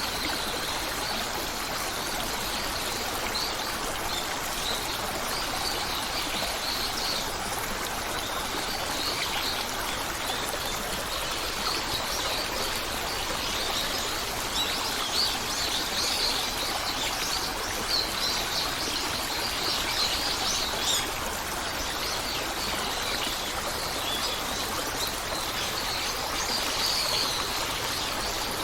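Steady running water of a forest stream, with birds chirping in short, high calls throughout.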